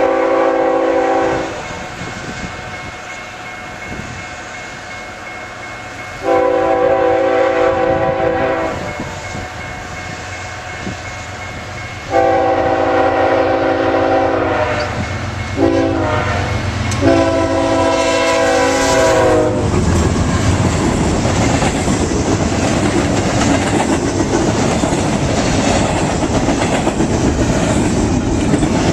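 BNSF 7441, a GE ES44DC diesel locomotive, sounds its horn in the grade-crossing pattern, long, long, short, long, after an earlier long blast, while its engine grows louder on the approach. From about twenty seconds in, the locomotive and train pass with a steady, loud rush of wheels on the rails.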